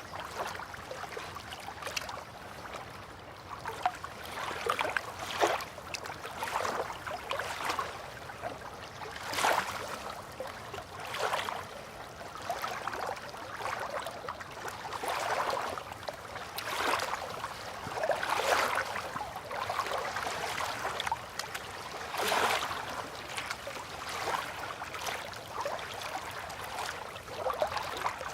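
Gentle river water lapping against the bank, in small irregular splashes and swells every second or two.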